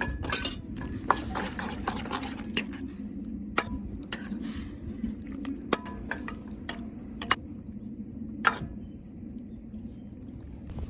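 Utensils clinking and scraping against metal cookware: scattered sharp clinks, some with a short ring, the loudest about eight and a half seconds in.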